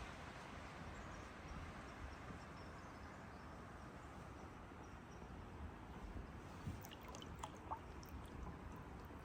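Quiet river ambience from a kayak on the water: a faint steady wash, with a few light knocks and drips about seven seconds in.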